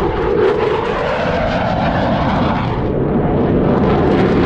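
Airplane engine noise, loud and steady, from airshow aircraft flying past.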